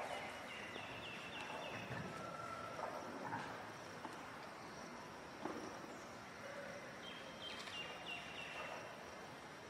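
Quiet outdoor ambience with a bird calling: a short run of high clear notes stepping down in pitch, near the start and again about seven seconds in.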